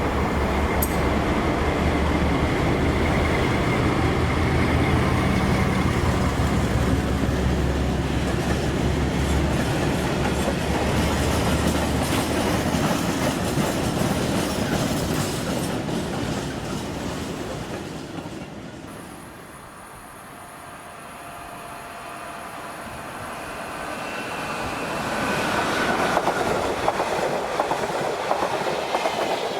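A train running past on the rails, its wheels clattering steadily over the track with a low electric hum beneath. About two-thirds of the way through the noise fades away, then train running noise builds up again with a thin high squeal near the end.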